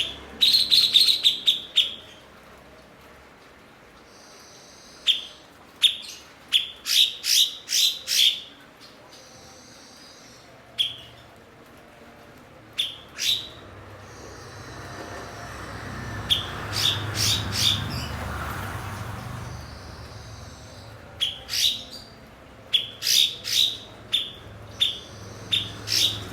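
A cucak cungkok singing in bursts of short, sharp, high notes that each sweep quickly downward, given in quick runs of three to eight with pauses of a few seconds between. A soft rushing noise swells and fades in the middle.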